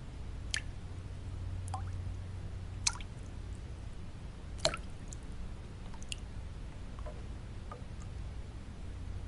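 Water drops falling into water, irregular single plinks each with a quick rising pitch, roughly one a second with the loudest about halfway through, over a steady low noise bed.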